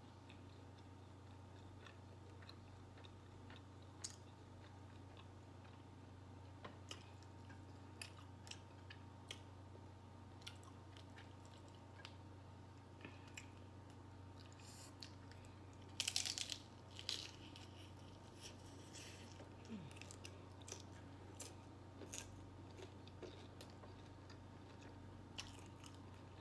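Chewing and crunching on a steak taco in a ranch taco shell: scattered soft crunches, with a louder run of crunching about two-thirds of the way in, over a low steady hum.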